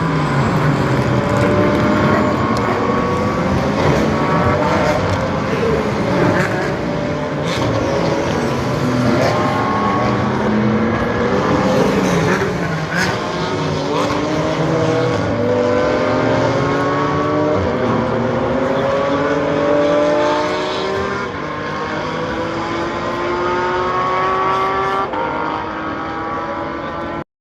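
Several GT race car engines on track, accelerating one after another through the gears: overlapping rising engine notes that keep repeating. Near the end the sound cuts off abruptly.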